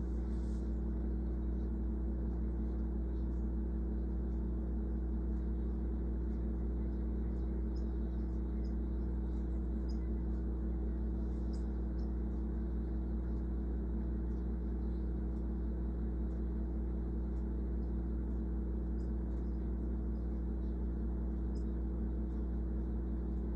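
A steady low mechanical hum runs unchanged throughout. Faint, short high sounds are scattered over it.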